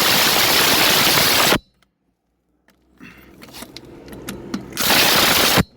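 DeWalt DCF887 cordless impact driver hammering on a wheel nut through a 17 mm socket: a loud rapid impacting that stops about a second and a half in, then lighter clicks and rattles, then a second short burst of hammering near the end. The hammering shows the nuts are tight.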